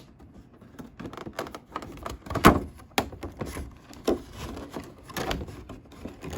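Cardboard figure box being opened and handled: irregular scrapes, rustles and light knocks of cardboard and packaging, with a sharper knock about two and a half seconds in.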